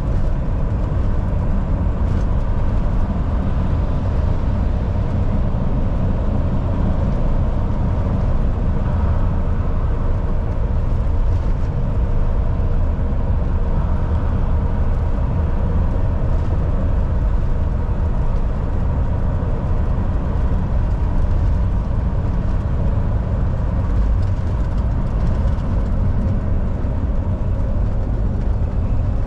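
Volvo VNL 760 semi truck cruising at highway speed: a steady, unchanging low diesel engine drone mixed with road and tyre noise.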